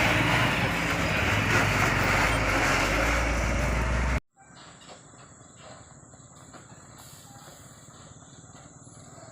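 Heavily loaded Hino 500 truck's diesel engine running as the truck drives past close by, a loud low rumble that cuts off abruptly about four seconds in. Faint outdoor background follows, with a steady high-pitched whine.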